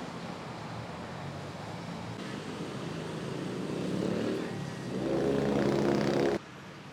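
Street traffic noise, with a close motor vehicle engine growing louder over the last few seconds; the sound cuts off abruptly near the end.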